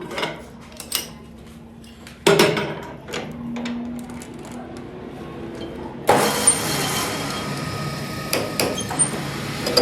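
Workshop sounds from the socket repair: a few sharp metal knocks and clatter, the loudest about two seconds in. About six seconds in, a power tool starts and runs steadily.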